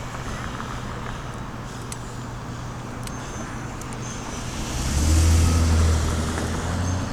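City street traffic, with a motor vehicle passing close about five seconds in: a loud, low engine sound with road hiss that swells for about two seconds and then eases off.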